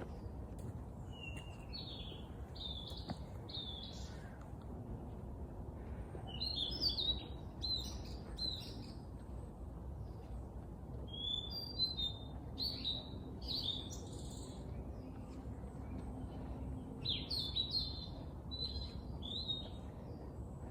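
Small songbirds singing in four short bouts of quick chirping phrases, over a steady low background hum of outdoor ambience.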